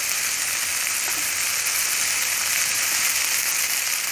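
Chicken pieces, onion and capsicum sizzling steadily in hot oil in a frying pan as they are stirred with a metal spoon.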